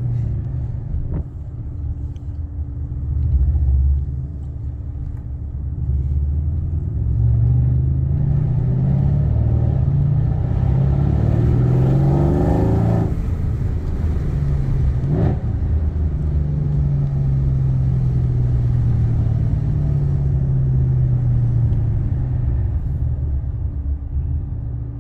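Mercedes-AMG C63 S engine running on the move, its note climbing as it pulls harder through the middle. A quick rev rises and falls shortly after, and it then settles into a steady drone.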